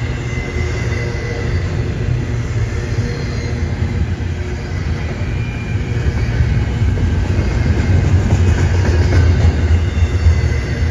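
A train running past on the rails: a steady, heavy low rumble that grows louder from about six seconds in, with faint high steady tones above it.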